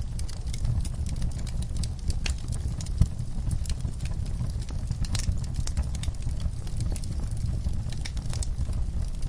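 Wood fire burning in a fireplace: a steady low rumble with irregular crackles and pops, the loudest pop about three seconds in.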